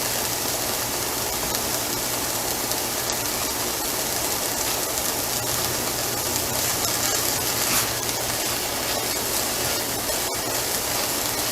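Chopped onions and garlic sizzling steadily in oil in a frying pan.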